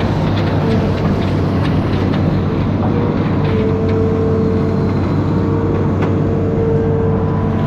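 Amphibious excavator's diesel engine running steadily under work, with a whining tone that fades in and out and a few light knocks.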